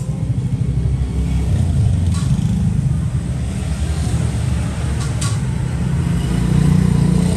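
Steady low rumble of motor traffic with motorbikes, swelling a couple of times, with a few sharp clicks about two and five seconds in.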